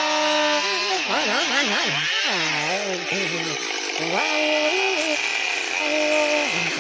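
Handheld chainsaw cutting into a tree trunk, its engine pitch rising and falling again and again as the chain loads in the wood.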